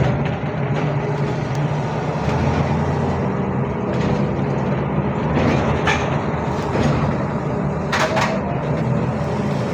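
Cabin sound of a ZiU-682G trolleybus: a steady low hum under a noisy rumble, with a few sharp knocks and rattles, two close together about eight seconds in.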